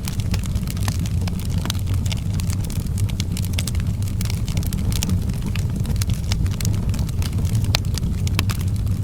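Outdoor wood fire crackling: many sharp, irregular pops and snaps over a steady low rumble.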